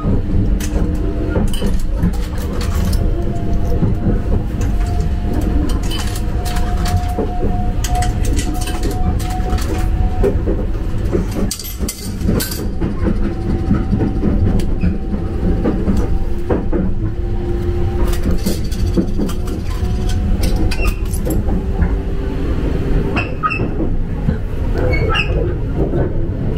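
Running noise inside a moving Sunrise Izumo sleeper train: a steady low rumble throughout, with scattered clicks and clinks from coins dropped into a shower-card vending machine.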